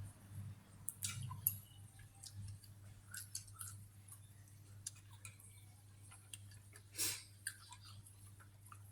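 A person eating: faint chewing and scattered small clicks, over a low steady hum.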